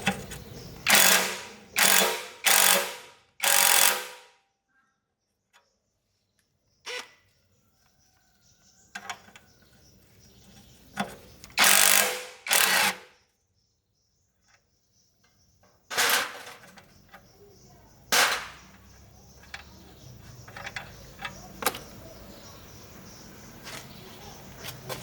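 A run of short, loud mechanical bursts, each about half a second long: four in quick succession at the start, two more about halfway, and two near the end, with fainter clicks between.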